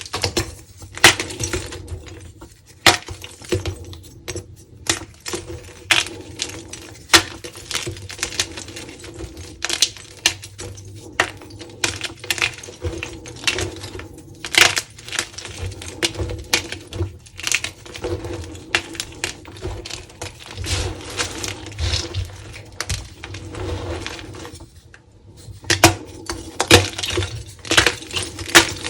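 Dyed gym chalk being crushed and crumbled by hand: dense, irregular crisp crunches and crackles, with a short lull near the end.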